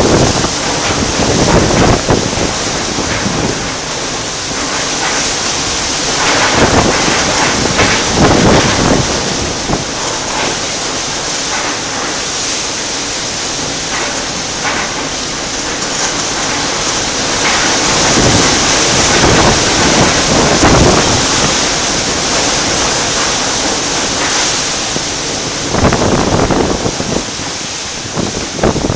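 Typhoon wind and heavy driving rain: a steady rush of rain with strong gusts that surge and fade every few seconds, the gusts buffeting the microphone with a low rumble.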